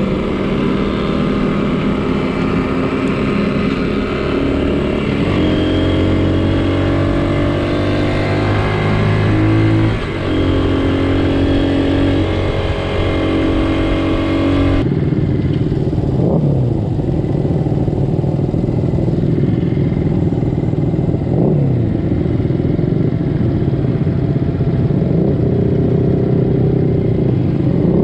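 Small vintage Honda motorcycle engines running under way, the engine note climbing and stepping down as the bike changes speed and gears, with a brief drop in level about ten seconds in. Roughly halfway through, the sound changes abruptly to a rougher, noisier engine note.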